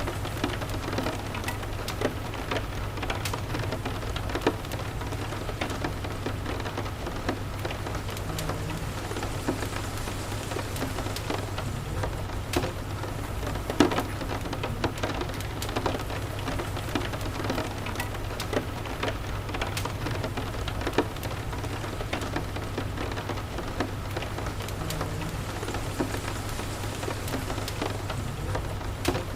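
Steady rain mixed with a wood fire crackling: scattered sharp pops over an even hiss, the loudest pop about halfway through and another near the end, with a steady low hum underneath.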